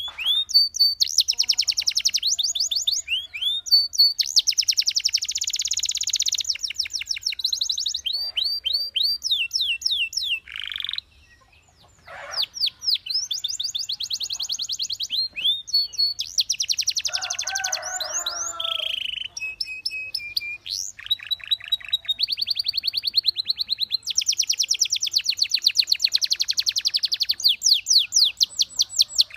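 Belgian canary singing: long, fast trills of rapidly repeated notes alternating with sweeping, gliding notes, high-pitched. A brief pause comes about eleven seconds in.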